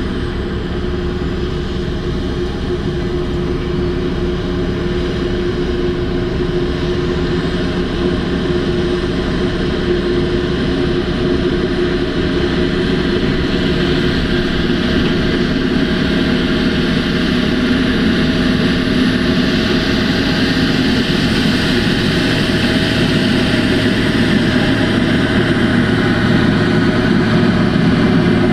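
Heavy diesel engine of large mining machinery running steadily, with a constant low drone that grows slowly louder.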